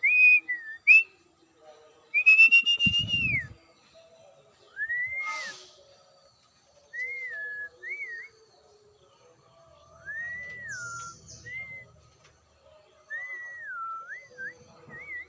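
A bird giving clear whistled notes, each a single pure tone that rises and falls, in short phrases with pauses of a second or two between them. A brief low thump sounds about three seconds in.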